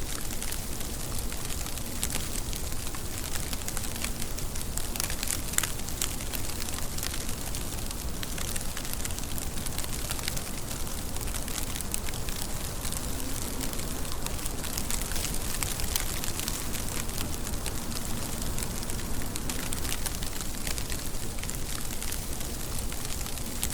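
Steady rain: an even hiss with a dense patter of separate drops striking close by.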